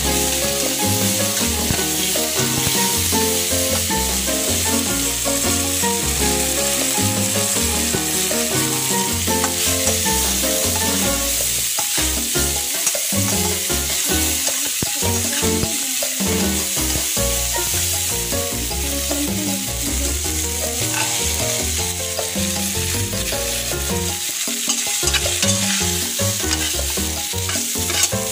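Garlic, shallots, chilies and herbs sizzling steadily as they are sautéed in hot oil in a wok, stirred with a metal spatula.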